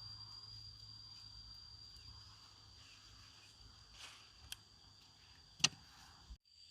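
Steady high-pitched insect drone over faint outdoor background, with two sharp clicks or knocks, the louder one near the end, followed by a brief abrupt cut in the sound.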